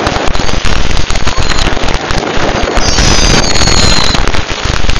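Many fireworks going off at once, with dense crackling and banging and a loud, steady barrage. About three seconds in, a high whistle glides down in pitch for about a second.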